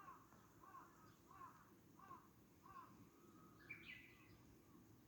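Faint bird calls outdoors: a short call repeated about every two-thirds of a second, then one higher call near the end, over a low background hum.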